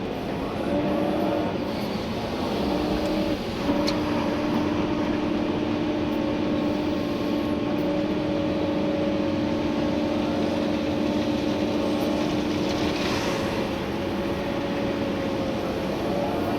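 Komatsu PC290-11 excavator's diesel engine and hydraulics running under digging load, heard from inside the cab, with a steady whine that starts about a second in, breaks off briefly twice, then holds until near the end. A sharp click near four seconds in.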